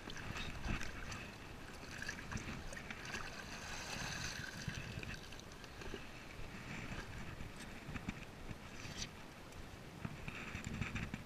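Water lapping and sloshing against a fishing kayak's hull, with irregular knocks and clicks as gear on board is handled.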